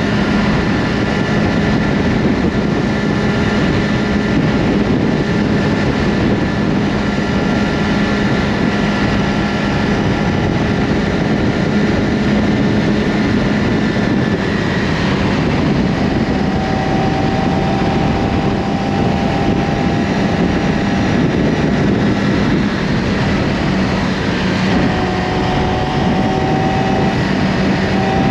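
Yamaha R6's inline-four engine through an Akrapovic slip-on exhaust, running at steady revs while the bike rides along, under a steady rushing noise.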